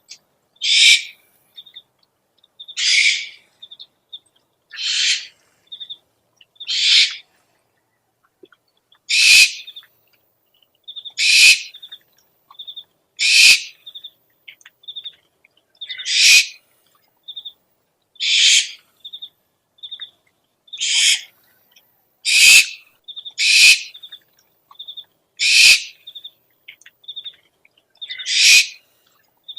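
Owl lure recording: harsh, raspy owl screech calls, about fourteen of them, each about half a second long and spaced one to three seconds apart, with short high whistle-like pips in quick groups between the screeches.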